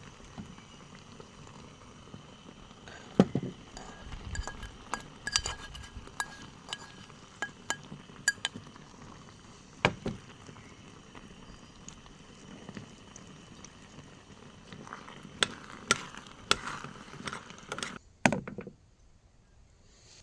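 Camp cookware and utensils clinking and knocking, a string of sharp irregular taps over a faint steady background, cutting off suddenly near the end.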